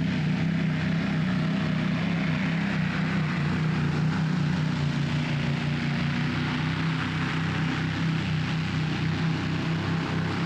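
Competition pulling tractor's engine running steadily with a deep, pulsing note that holds roughly level in pitch.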